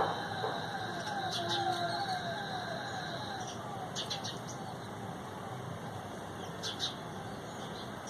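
Birds calling: a long series of short falling notes, about three a second, slowly fading, with a few sharp high chirps mixed in.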